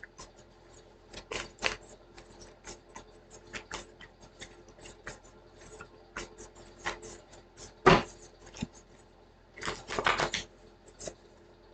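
Cards being shuffled and handled: a run of light, irregular clicks and flicks, with a sharper slap about eight seconds in and a quick flurry around ten seconds in.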